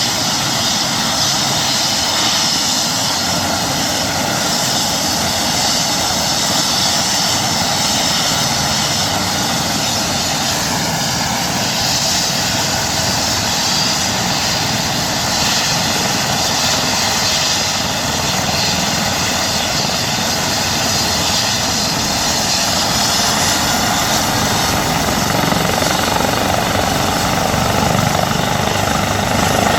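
Airbus EC135 helicopter running steadily, its twin turbine engines and rotor making a loud, even noise with a faint high steady whine.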